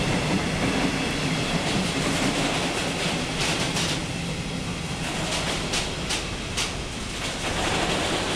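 A train rolling past on the line, a steady rumble with a run of sharp wheel clacks over rail joints from about three and a half seconds in.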